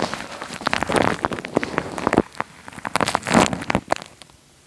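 Wet, sticky crackling and clicking made right on a microphone, a dense patter of small pops like rain that thins out near the end.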